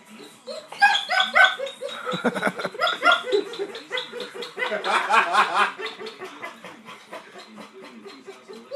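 A dog whining in quick, rhythmic, repeated yips, several a second, that sound like laughter.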